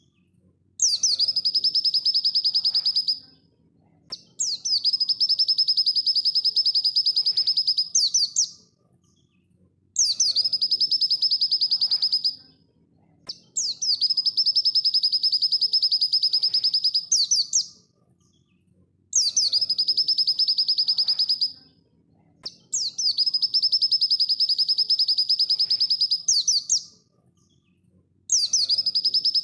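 Pleci dakun (white-eye) song played as a masteran training recording: the same fast, high, rattling trill phrase, opening and closing with quick upward sweeps, repeated again and again. The phrases last two to four seconds, with pauses of one to two seconds between them.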